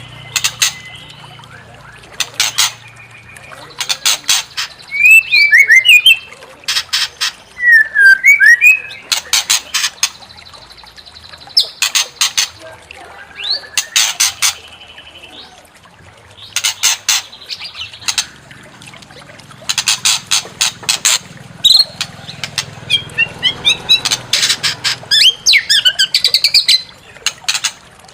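White-rumped shama (murai batu) singing aggressively: loud bursts of harsh, rapid rattling notes alternate with short, clear, sliding whistled phrases, repeated many times.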